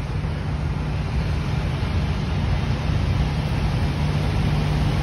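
Passenger coaches of a steam-hauled train rolling past along a station platform: a steady low rumble with a held hum that grows slightly louder.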